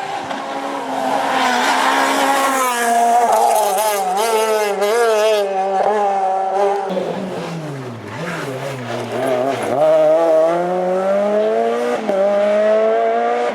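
Renault Clio R3 rally car's naturally aspirated four-cylinder engine driven hard: the revs climb and waver, then drop sharply about seven seconds in as the driver lifts off. The engine then pulls up through the revs again, with a quick gear change about twelve seconds in. A hiss of tyres on the surface runs under the first few seconds.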